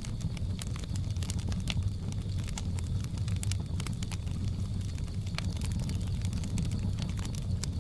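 Wood fire crackling, with frequent sharp pops and snaps over a steady low rumble of the burning logs.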